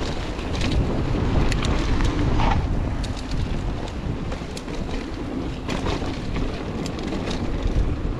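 Wind buffeting the microphone of a mountain biker riding a dirt trail, with tyre noise on the dirt and scattered clicks and rattles from the bike.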